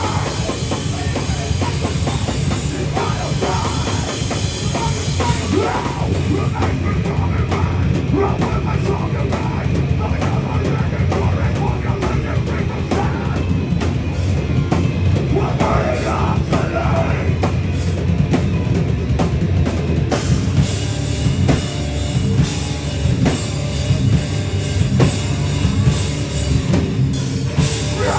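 Heavy rock band playing live through a club PA, loud and dense, with the drum kit driving it.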